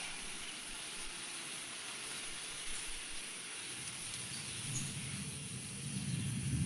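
Light rain sprinkling, a steady even hiss, with a low rumble building near the end.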